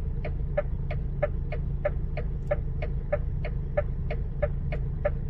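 Indicator relay clicking steadily inside a vehicle cab, about three clicks a second, over the steady low drone of a diesel engine running.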